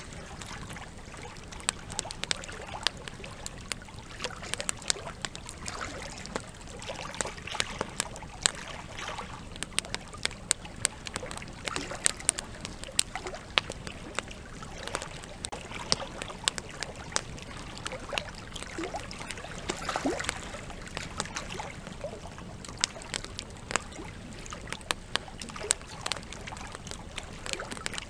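Campfire crackling with frequent irregular sharp pops, over the steady sound of a flowing river.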